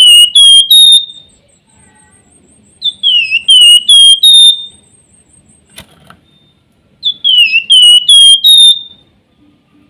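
Flamboyan (wergan jawa, Javan fulvetta) songbird whistling its song. The same short, loud phrase repeats about every four seconds: a dipping whistle followed by a few notes stepping back up in pitch. A single sharp click falls about six seconds in.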